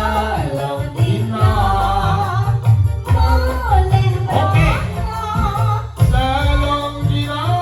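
Live band music with a singer holding and bending long notes over a steady bass and drum accompaniment.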